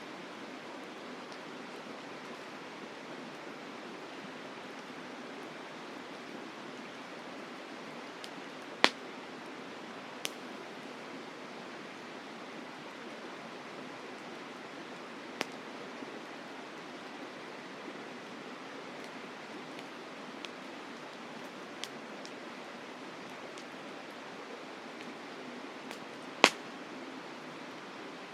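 Wood campfire crackling, with a few sharp pops, the loudest about nine seconds in and near the end. Beneath it runs the steady rush of a mountain river.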